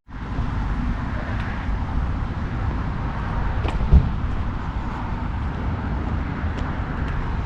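Steady low road rumble of a vehicle in motion, with a single thump about four seconds in.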